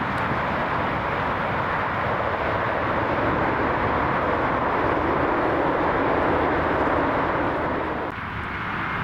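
Jet airliner engine noise: a steady rushing noise that swells slowly, then dips about eight seconds in.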